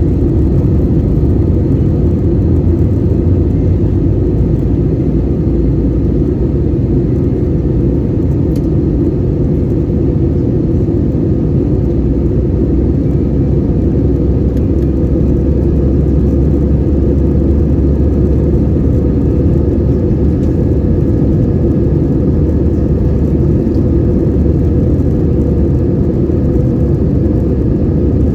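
Steady drone of an Airbus A320-200's engines and airflow heard inside the passenger cabin, a deep even rumble that does not change.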